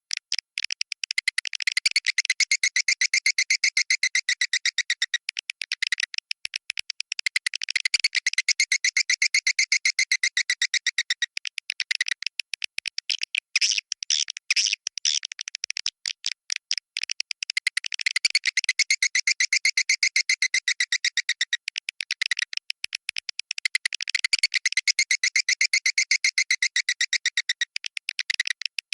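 Swiftlet calls of the 'Goa China' type: fast runs of high twittering chirps, swelling and thinning in a pattern that repeats about every six seconds.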